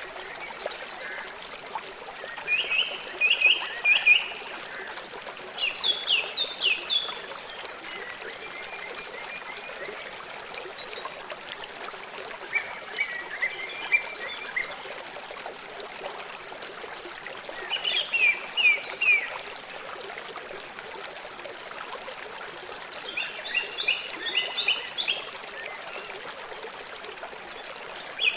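Small stream trickling steadily, with a songbird repeating a short phrase of quick high notes every few seconds.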